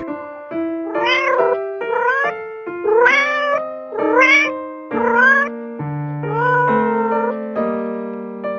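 An animal's short calls, each rising in pitch, repeated about once a second, over background piano music.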